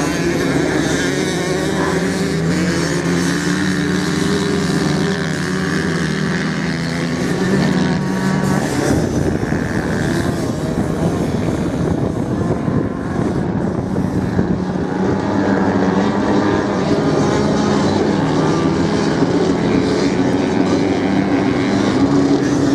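Several motorcycle engines running hard at once, their pitches shifting up and down as the bikes accelerate and ease off while racing on sand.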